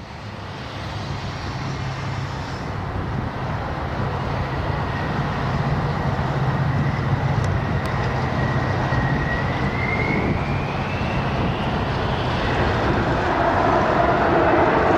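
Aircraft engine noise that fades in and grows steadily louder: a rumble with a faint whine that rises in pitch about ten seconds in.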